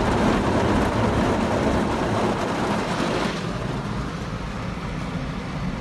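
Automatic tunnel car wash machinery running, with water spraying on the car. The noise is heard from inside the car and drops somewhat about three seconds in.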